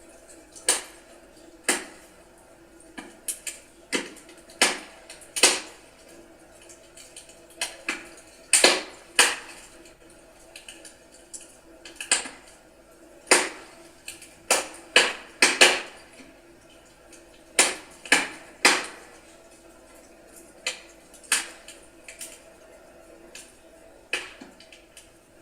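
Wood burning in a fireplace, crackling with irregular sharp pops and snaps, some coming in quick clusters of two or three, over a faint steady background.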